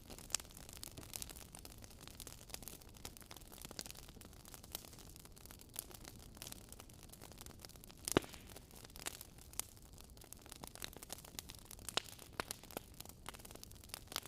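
Wood campfire crackling: irregular small pops and snaps over a low hiss, with one louder pop about eight seconds in.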